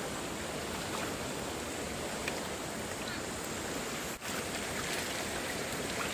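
Stream water rushing steadily, with a brief dip about four seconds in.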